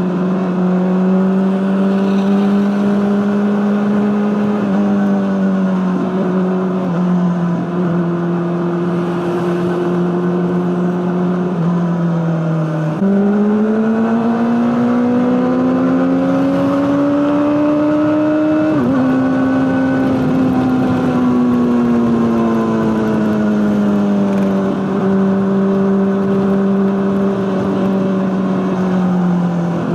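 Honda CBR600RR's inline-four engine through an Akrapovic exhaust, running at steady mid revs with its pitch easing up and down. A little under halfway through, the revs climb for several seconds, then drop abruptly.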